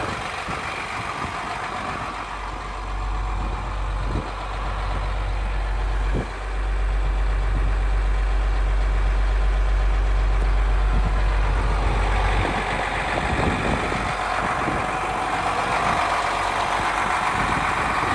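Navistar N10 diesel engine of a 2016 International 7500 WorkStar truck idling, with a deep low rumble that grows heavier for several seconds in the middle and then eases off.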